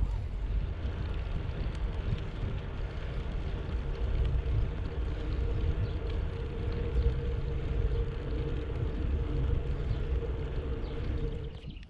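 Wind rushing over the camera microphone with rolling tyre noise during a bicycle ride, steady and strongest at the low end. A steady hum joins in about halfway through. Everything drops off sharply just before the end.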